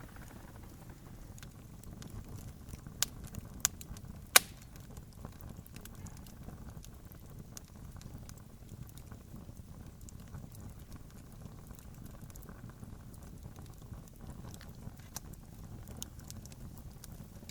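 Campfire crackling: scattered sharp pops and snaps over a steady low rumble. Three louder pops come a few seconds in, the last of them the loudest.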